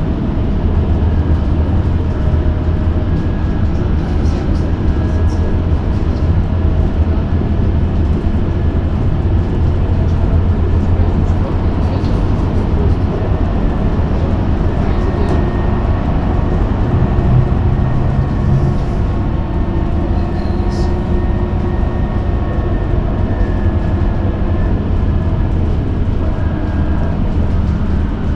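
Cabin noise inside a moving electric bus: a steady low rumble from the road and running gear, with the electric drive's faint whine, whose pitch drifts slowly as the bus changes speed.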